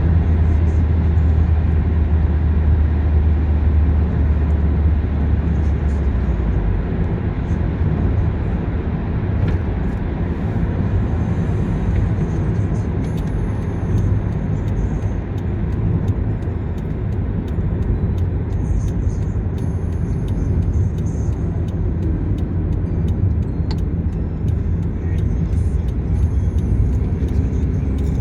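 A car driving, with a steady low rumble of engine and road noise and no sudden events.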